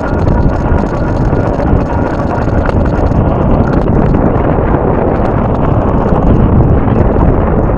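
Strong wind buffeting the camera microphone, a loud steady rumble throughout.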